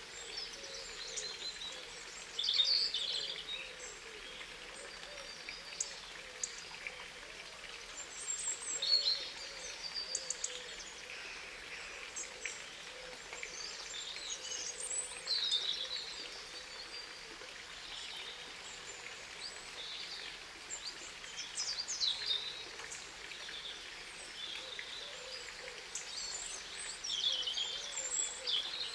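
Birds chirping and calling in scattered short bursts, loudest a handful of times, over a steady faint outdoor background.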